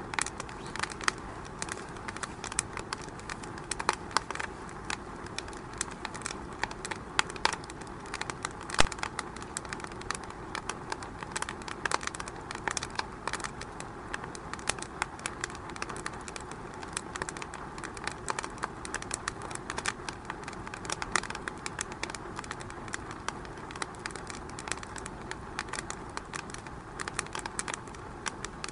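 Wood fire crackling in a fireplace: a steady hiss broken by many irregular sharp pops and snaps, a few louder than the rest.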